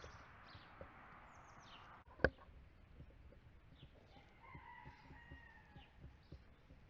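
Faint rooster crowing once in a long held call about two-thirds of the way through, with high short chirps from other birds. A single sharp click comes a little over two seconds in.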